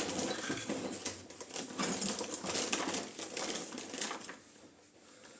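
Rapid irregular clattering and clicking of small hard objects being rummaged through by hand, lasting about four seconds and then dying away.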